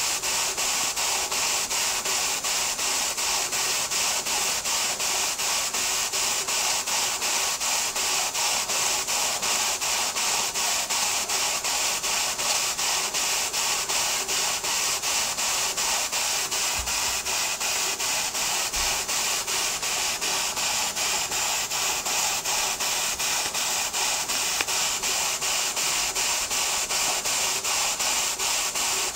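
Stuart model beam engine running steadily on steam, with an even, rapid beat of exhaust puffs over a constant hiss of steam.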